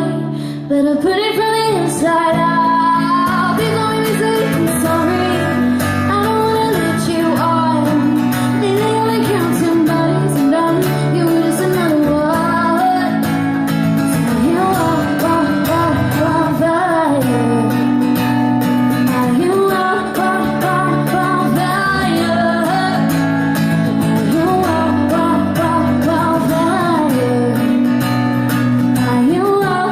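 A woman singing live over acoustic guitar, her voice gliding up and down in long phrases above steady held chords.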